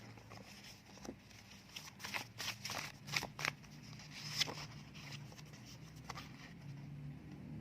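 Faint, scattered clicks and light taps of cards being handled, over a low steady hum.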